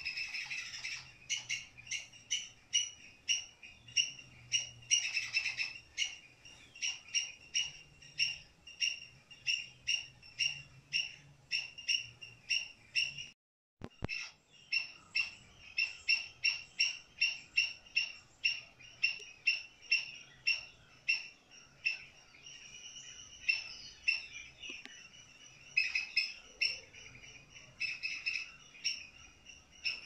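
A bird calling a short, high chirp over and over at a steady pace of about two a second. The calls break off for a moment about halfway through.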